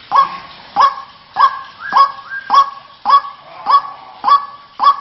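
White-breasted waterhen calling its repeated croaking 'kru-ak' call, a steady series of loud, short calls a little under two a second, played as a bird-lure sound.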